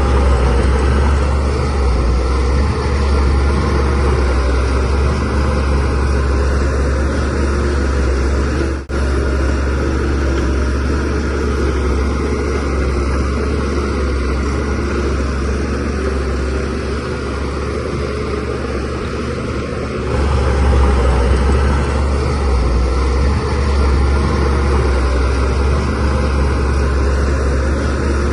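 DH17C3PRO bulldozer's diesel engine running steadily under load while pushing soil. It cuts out for an instant about nine seconds in, and the engine gets louder from about twenty seconds in.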